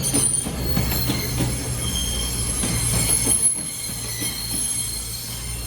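CrossCountry Voyager diesel multiple units, a Class 220 coupled to a Class 221, arriving along a platform: a shrill, high-pitched squeal of wheels on rail over the steady low hum of the diesel engines.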